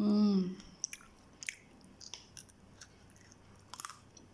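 A short voiced grunt of effort, then scattered crackles and clicks as a tight plastic candy-bar wrapper is bitten and torn open with the teeth.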